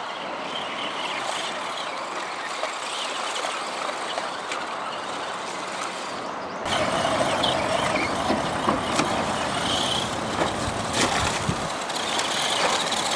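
Shallow river water rushing steadily, getting louder about six and a half seconds in, with the faint whine of radio-controlled crawler trucks' electric motors driving through it.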